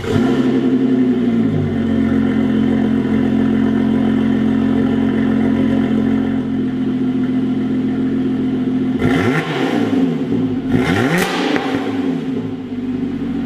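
Lotus Exige S's supercharged 3.5-litre V6 starting from cold. It catches with a flare, and the revs drop within about two seconds to a steady fast idle. Two quick throttle blips follow, about nine and eleven seconds in.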